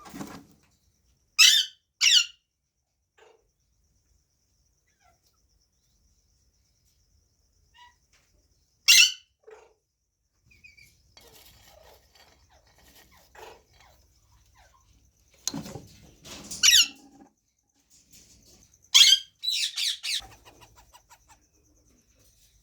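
Ring-necked parakeets giving short, shrill squawks in scattered bursts: two close together near the start, a single call in the middle, and a cluster of calls in the last third.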